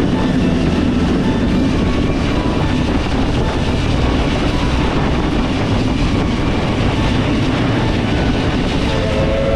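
Steam train running along the track, a steady loud rumble of wheels and carriage. About nine seconds in, the locomotive's whistle starts to sound.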